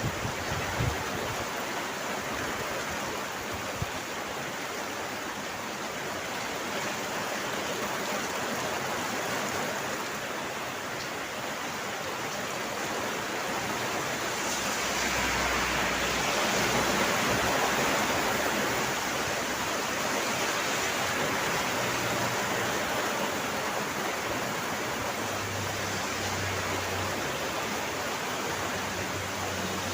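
Steady heavy rain, an even rushing hiss that swells a little about halfway through, with a few soft low knocks in the first second.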